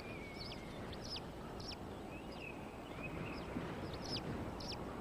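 Prairie falcons calling at the nest: a series of short, sharp, high-pitched calls, about two a second, each dropping quickly in pitch, with a brief wavering whistle at the start and another around the middle, over a steady background hiss.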